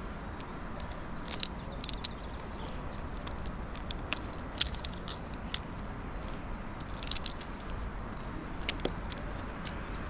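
Scattered light metallic clinks and jingles, a handful of sharp strikes with a brief high ring, over steady low background noise.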